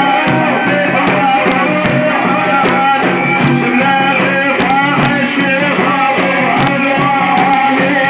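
Sufi devotional praise singing (manqaba) by a solo praise singer, accompanied by frame drums beating throughout.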